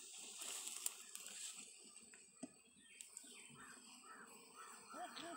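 Faint birds calling, a run of short repeated calls in the second half, with a few light clicks earlier.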